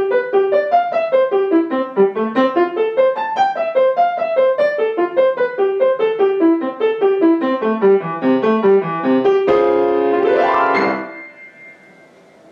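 Solo piano playing quick staccato, accented notes in repeated falling runs. About nine and a half seconds in comes a fast upward glissando to the final notes, which then ring and die away.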